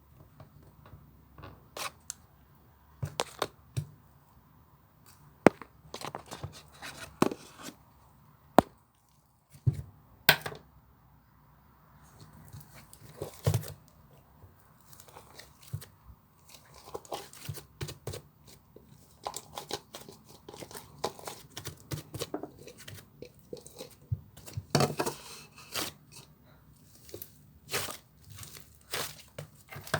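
Slime being squeezed, stretched and pressed by hand, giving irregular sharp pops and clicks with short stretches of crackling.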